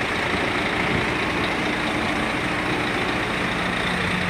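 Heavy truck engine running steadily with road and cab noise, a low hum growing clearer about three seconds in.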